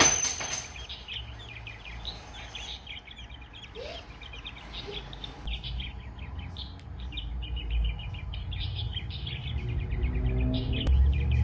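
Budgies chirping and chattering, a steady stream of quick overlapping chirps. A loud brief burst of noise right at the start, and a low rumble building near the end.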